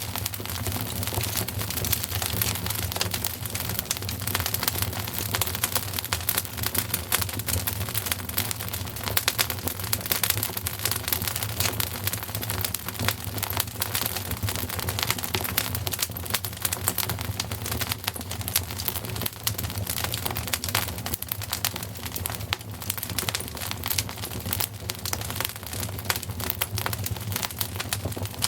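Wood fire crackling, a dense run of rapid small pops and snaps over a steady low rumble.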